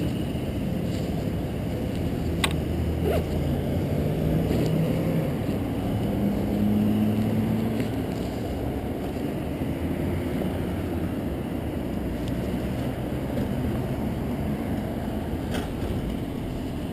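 Steady low rumble of road traffic, with engine hums that slowly rise and fall in pitch and a few faint clicks.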